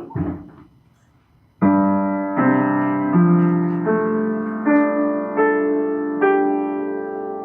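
Improvised piano: after a second and a half of near quiet, slow chords and single notes are struck about every three-quarters of a second and left ringing.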